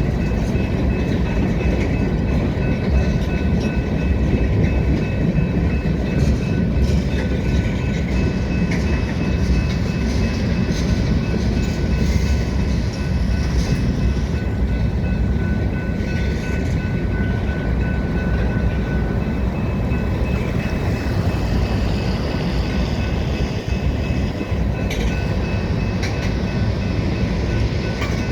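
Freight train rolling steadily past: a continuous rumble of wheels on rail with some clickety-clack, and thin steady high-pitched whines over it.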